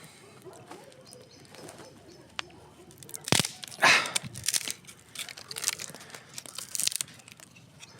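Campfire crackling, with irregular sharp pops and a louder snap and crackle about three to four seconds in.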